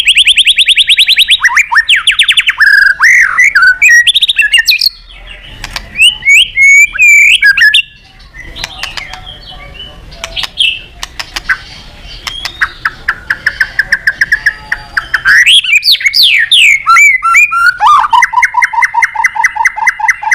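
White-rumped shama (murai batu) singing loudly in varied phrases. It opens with a fast trill of rapidly repeated notes, then gives swooping whistles and quick clicking notes, and near the end a lower rapid trill.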